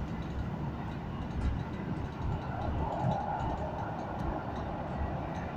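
EN57AL electric multiple unit running along the line, heard from inside the passenger compartment: a steady rumble of wheels on the track and running gear.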